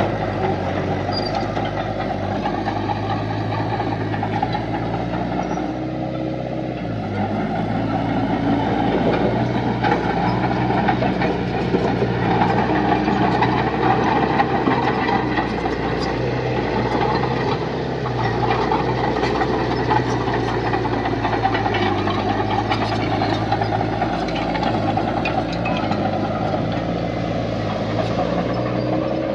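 Heavy diesel earthmoving machinery running steadily, its engine note shifting up and down a few times as it works.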